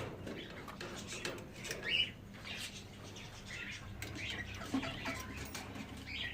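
Caged pet parrots giving scattered short chirps and calls, several times.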